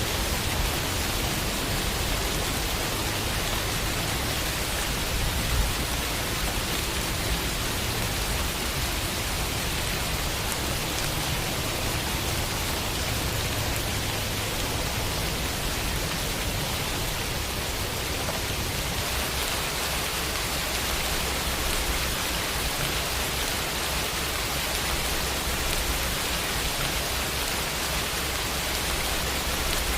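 Steady rainfall on a window, an even hiss of rain with faint drops tapping. The low rumble underneath eases a little about two-thirds of the way through.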